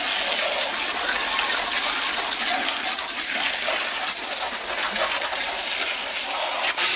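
A steady jet of water spraying onto an air-conditioning condenser coil, rinsing the foaming coil cleaner out of the fins.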